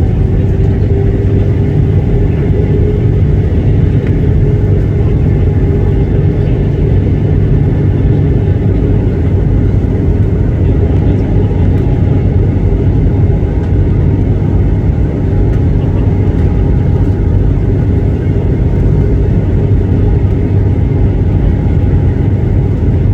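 Airliner cabin noise: a steady, loud roar of the jet engines and airflow, heavy in the low rumble, with a faint whine that rises slightly in the first few seconds.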